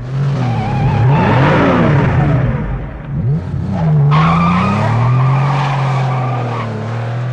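Car engine revving while the tyres squeal through two long skids, the first easing off about three seconds in and the second starting about a second later.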